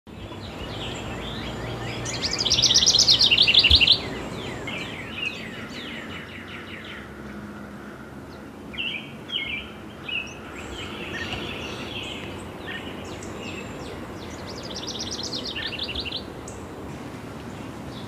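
Songbirds singing and chirping: a loud, fast trill of rapidly repeated notes about two seconds in, short chirps in the middle, and a second fast trill near the end.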